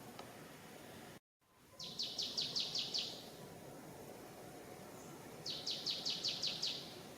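A bird calling twice, each time a quick run of about seven high, down-slurred chirps, over steady forest background noise. The sound cuts out for an instant about a second in.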